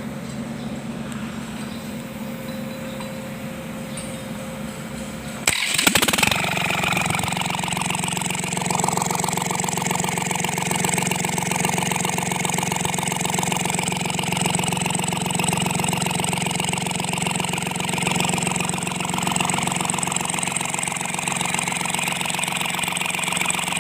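Tractor diesel engine starting about five and a half seconds in after a steady hum, catching with a sudden loud burst, then running steadily at idle.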